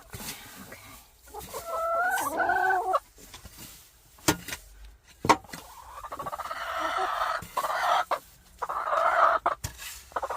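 Backyard hens clucking and calling: a few pitched calls that bend up and down, then long drawn-out hoarse calls later on. Two sharp knocks sound about four and five seconds in.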